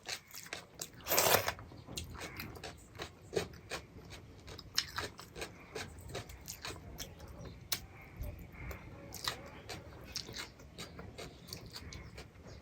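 Close-up eating sounds: a steady run of short wet chewing clicks and mouth smacks, with a louder, longer burst a little over a second in.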